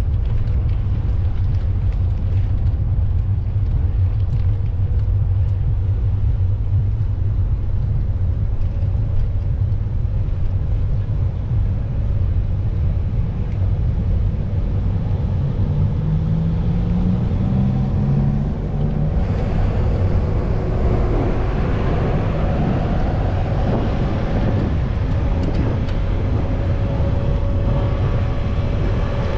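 Steady low rumble of outdoor traffic noise. About two-thirds of the way through, a vehicle or engine sound builds up over it.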